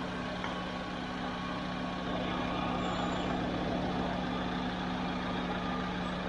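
Small car's engine idling steadily, an even hum with the air conditioning switched on while the system is recharged with refrigerant.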